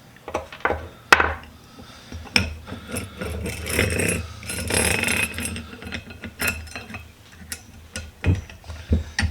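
Small steel vise parts (pin, washers and springs) clinking, knocking and scraping as they are worked off and handled, with a sharp knock about a second in and a stretch of scraping in the middle.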